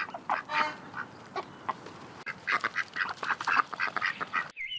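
Musk duck calling: a rapid run of short, rough calls, several a second, cut off abruptly near the end.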